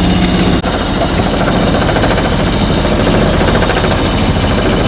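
Sailboat's inboard engine running under way with a fast, even chugging; a steady low hum drops out about half a second in.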